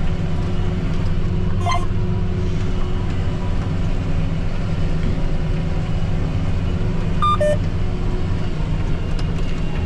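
John Deere 8230 tractor's six-cylinder diesel running steadily under load, pulling a disc harrow, heard from inside the cab. Two brief electronic beeps sound, about two seconds in and again about seven seconds in.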